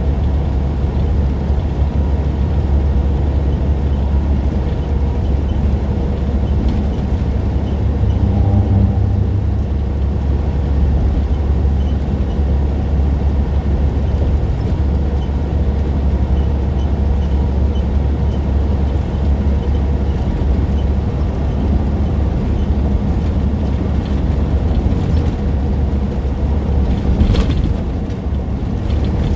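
Truck driving down the road: a steady, deep engine drone with road noise. A short sharp click sounds near the end.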